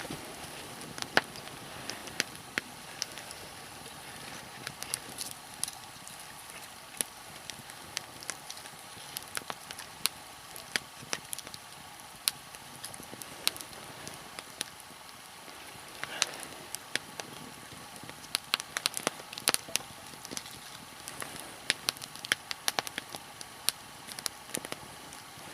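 Nodya log fire crackling, with irregular sharp pops and snaps over a low steady hiss; the pops come in bunches in the second half.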